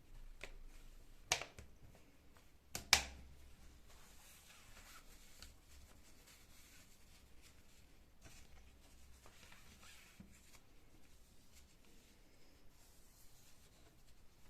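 Two sharp clacks of hard objects being handled or set down, about a second and a half apart, the second louder, followed by faint scattered rustling and handling sounds.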